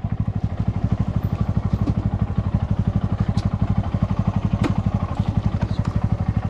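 Motorcycle engine idling with a steady, even exhaust pulse, and a couple of faint clicks about halfway through.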